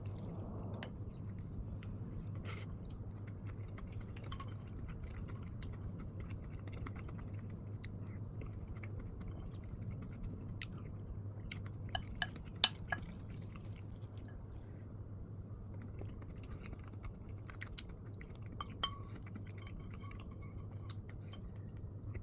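Chewing food close to the microphone, with scattered light clicks of cutlery on dishes and a few sharper clinks about twelve to thirteen seconds in, over a steady low hum.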